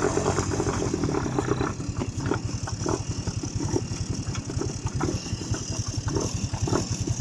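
Quad bike engine running at low revs with an even chugging pulse.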